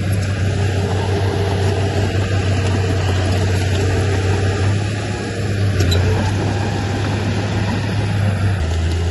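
Heavy diesel engine of earthmoving machinery running steadily, its low note dropping slightly near the end.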